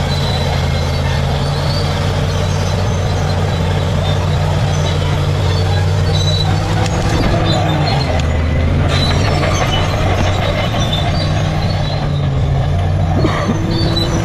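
Bulldozer's diesel engine running steadily at a constant pitch, a continuous heavy drone.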